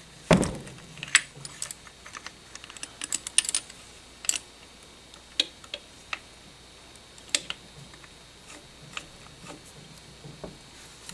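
Irregular metallic clicks and taps of hand tools against engine parts, with a heavier knock just after the start.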